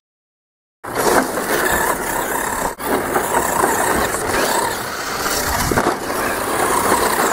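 Arrma Mojave electric 2WD RC short course truck driving off-road: a noisy rush of motor, drivetrain and tyres on dirt and grass. It starts about a second in and drops out briefly near three seconds.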